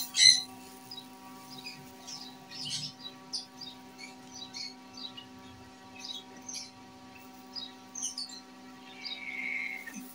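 Small birds chirping in short, scattered high calls over a steady electrical hum.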